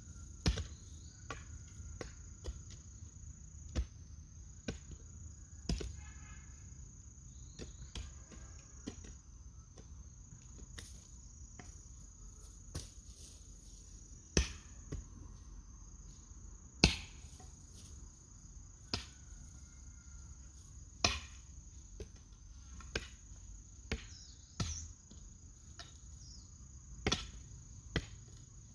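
Irregular chopping strikes, roughly one every one to two seconds, over a steady high chirring of crickets.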